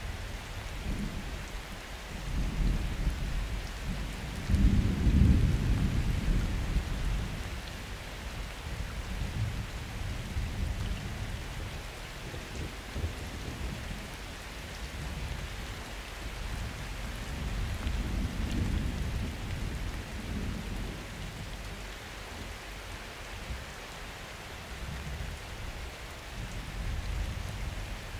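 Steady summer rain with distant thunder rolling through it. The rumble swells loudest about five seconds in, then comes back more faintly in rolls later on.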